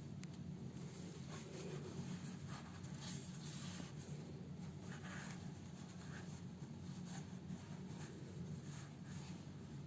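Faint scratching and rustling as a fabric house slipper is handled to be sewn up, over a steady low hum.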